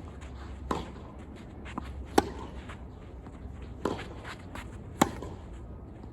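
Tennis ball impacts during play: four sharp pops of the ball off racket strings and court, spaced about one to one and a half seconds apart, over a steady low hum.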